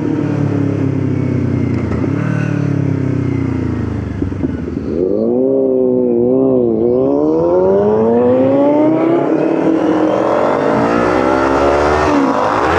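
Motorcycle engine on the move. The revs sag for the first few seconds, then pick up about five seconds in with two quick dips, fall back, and climb steadily again as the bike accelerates.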